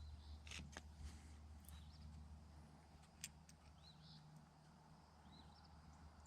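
Near silence: a steady low hum, with a few faint small clicks in the first second and another about three seconds in, and a few faint high chirps near the end.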